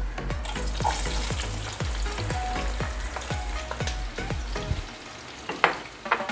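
Chopped onions and green chillies sizzling in hot sunflower oil in a pan as they are stirred, the spoon clicking against the pan a couple of times near the end.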